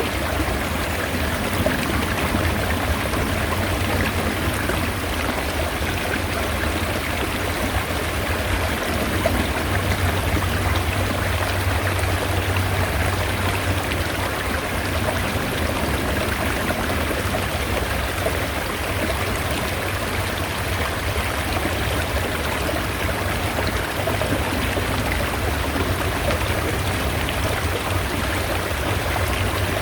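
Mountain stream running steadily: a continuous rush of flowing water with a low rumble underneath.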